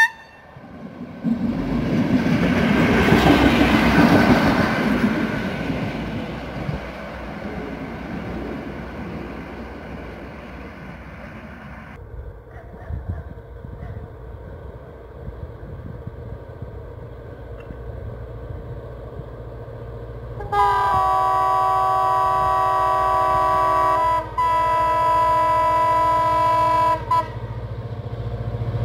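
A diesel railcar approaches and passes, its running noise rising to a peak a few seconds in and then fading. Then a diesel locomotive hauling tank wagons rumbles in and sounds its multi-note horn: a long blast of about four seconds, a brief break, then another of nearly three seconds.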